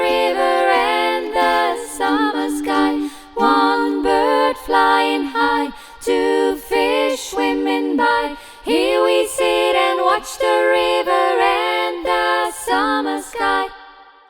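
A cappella singing of a children's song in several layered voices, with no instruments. The singing stops shortly before the end and dies away in a short echo.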